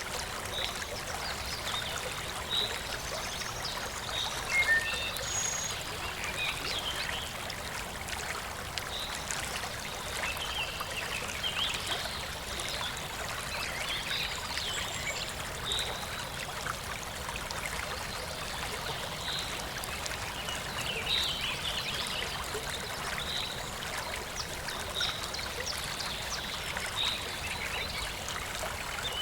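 Small stream trickling steadily, with birds chirping over it in many short, high calls.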